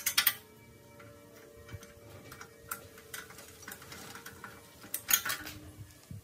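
Metal pieces clinking and tapping in a workshop: a few sharp clinks at the start that leave a light metallic ring, scattered single taps, and a quick cluster of clinks about five seconds in.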